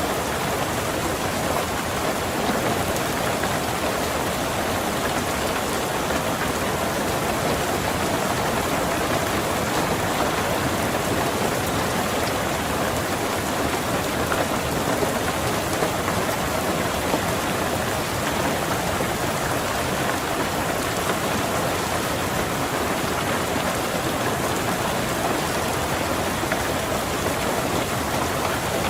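Steady rain falling on a car's roof and windows, an even hiss of drops with no thunder.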